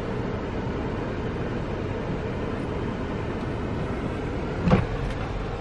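Steady noise of a car running, with one short thump near the end.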